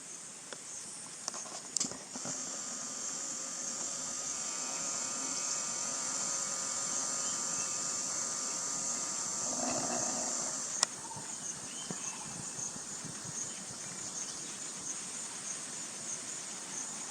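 Steady, high-pitched shrilling of insects, with a sharp click about eleven seconds in. After the click the shrill goes on as a pulsing trill. A brief lower sound comes just before the click.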